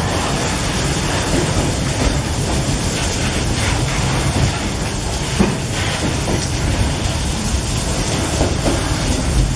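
Loaded freight wagons of a long train rolling past close by, steel wheels clattering on the rails with a few knocks now and then, mixed with heavy rain falling.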